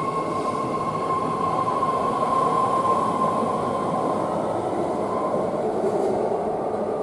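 BART rapid-transit train running through the underground station, a steady rumble with a high, steady whine over it that rises slightly near the end.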